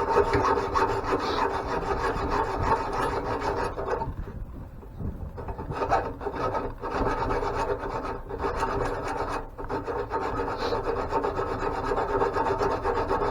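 Continuous rapid scraping and rasping while work is done on a seized part of an antique grain mill, in long stretches with a short let-up about four seconds in and a brief break near nine and a half seconds.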